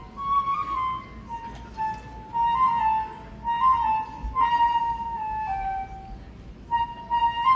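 A flute-like wind instrument playing a simple melody in short phrases, notes stepping up and down with brief pauses between phrases.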